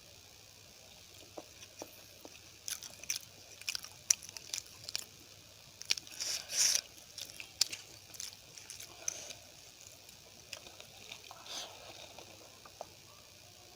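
A person chewing and biting food close to the microphone: a meal of poori, rice and curry. Scattered sharp mouth clicks, with a louder stretch about six seconds in.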